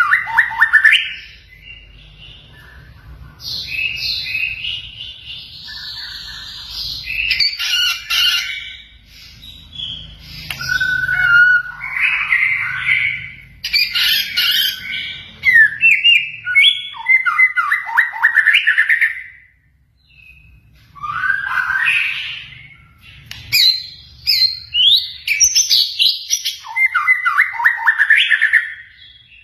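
White-rumped shama (murai batu) singing a long, varied song. Loud phrases of whistles, chirps and rapid trills come in bursts with short pauses between them, filled with phrases copied from other birds such as the canary.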